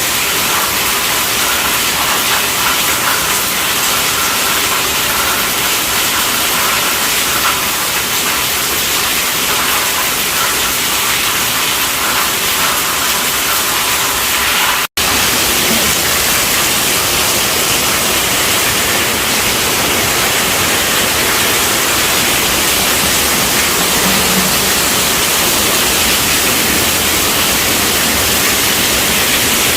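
Steady heavy rainfall, an even hiss. About halfway through it cuts out for an instant, then resumes with more low rumble.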